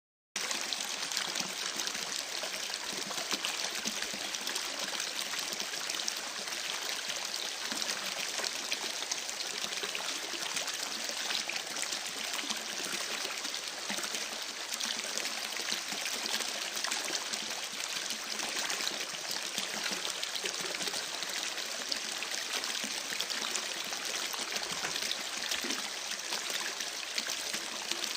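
Campfire crackling: a dense, steady hiss of many small pops and snaps, starting suddenly just after a moment of silence.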